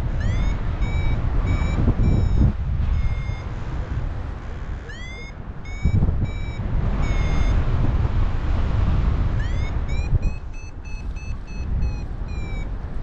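Paraglider's variometer beeping in three runs of short high beeps, each run opening with a rising chirp, the beeping that signals the glider is climbing in lift. Wind noise on the microphone throughout.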